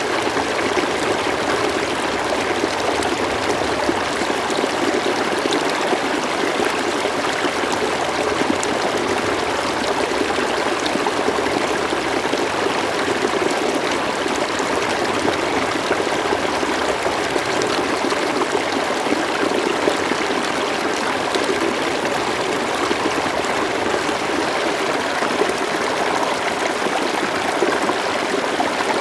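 River water flowing steadily, a continuous rushing babble with small trickles and splashes through it.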